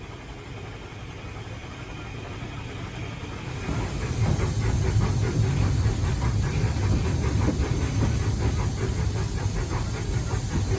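Steam locomotive running under way, heard from the footplate of a Bulleid Pacific: low rumble and steam hiss that grow louder about three and a half seconds in, then a fast, regular beat as the loco works along the line.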